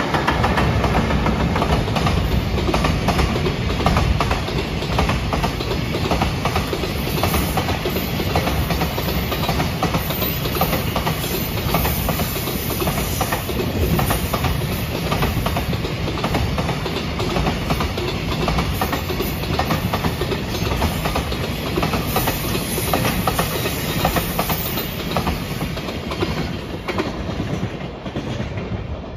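Freight train passing close by: a JR Freight EF210 electric locomotive followed by a long string of loaded container wagons, wheels rumbling and clicking steadily over the rail joints. The noise eases a little near the end as the last wagons go by.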